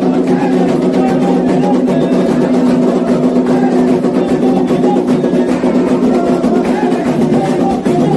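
Candomblé ritual music: steady hand-drum percussion with voices singing over it.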